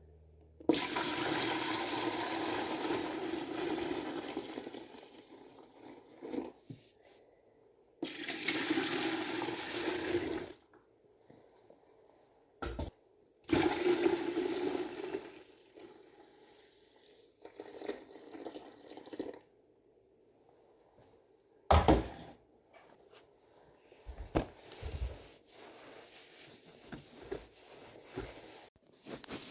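Water running hard in three bursts of a few seconds each, like a tap or hose being turned on and off. Quieter handling noises and sharp knocks follow, the loudest about three-quarters of the way through.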